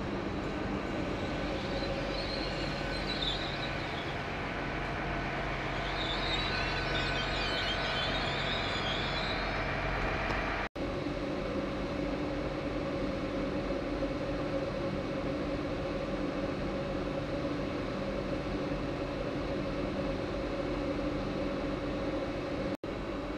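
GWR Hitachi Class 800 bi-mode train at a station platform, its underfloor diesel engines giving a steady hum with a few fixed tones. A couple of brief high squeals come in the first ten seconds while the train is moving slowly.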